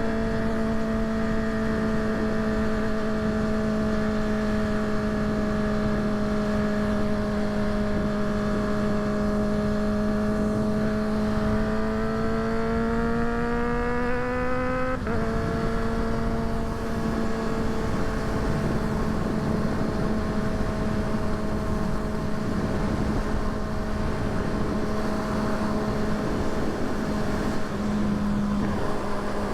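Kawasaki ZX-6R inline-four sport-bike engine running at a steady cruise, heard over wind and road noise. About halfway through, the revs climb slowly for a few seconds, then drop suddenly and settle back to a steady note.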